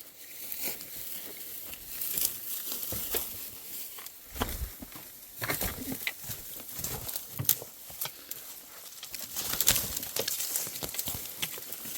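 Dry leaves and twigs rustling and crackling irregularly, with scattered sharp snaps and a few dull thumps about four and a half seconds in.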